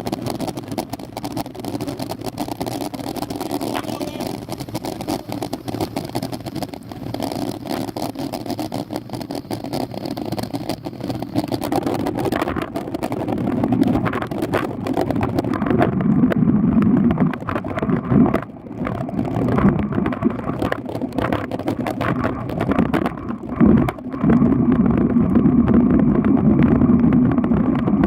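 Steady wind and road rumble from riding a bicycle in the rain, with many small knocks and bumps throughout; the sound turns duller and loses its hiss about sixteen seconds in.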